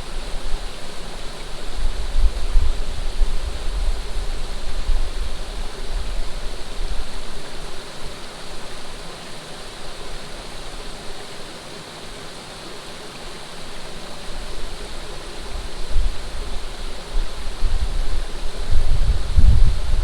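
Flowing water rushing steadily, with wind buffeting the microphone in low gusty rumbles that ease off in the middle and grow stronger near the end.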